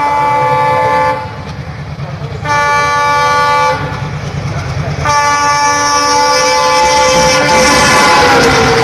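Indian Railways diesel locomotive sounding its multi-tone horn: a blast ending about a second in, a second short blast, then a long one whose pitch falls near the end. The engine's low rumble runs underneath.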